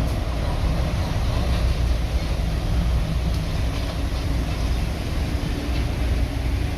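Diesel engine of earthmoving machinery running steadily at a constant pace, heavy in the low end.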